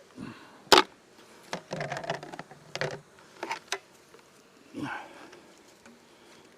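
Knocks, clunks and scrapes of wooden beehive boxes and frames being handled during a hive split, one sharp knock loudest about a second in, with bees buzzing.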